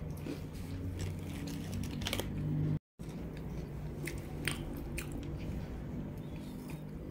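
Close-miked chewing of snack food: wet mouth sounds with many small sharp clicks. The sound drops out completely for a moment about three seconds in.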